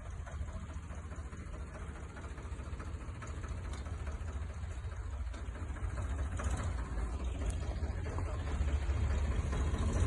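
A vehicle engine running with a low, steady rumble, growing gradually louder.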